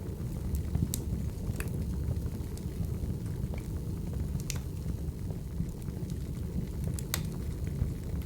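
Crackling wood fire: a steady low rumble with sharp pops and crackles scattered through it, roughly one every second.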